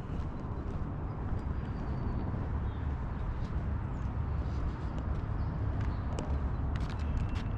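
Wind rumbling on the microphone with scattered light ticks of footsteps while walking.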